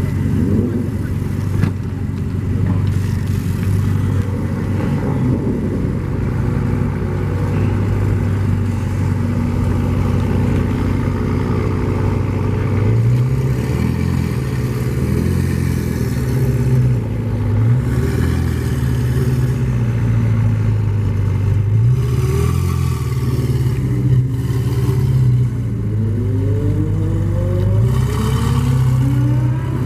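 Car engine running loudly at a steady idle, revved up and back down several times in the second half. Near the end its pitch rises steadily as it revs higher.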